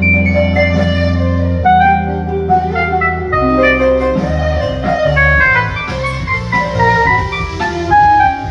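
Instrumental Turkish music: a quick plucked kanun melody over long held bass guitar notes, with violin and drum kit.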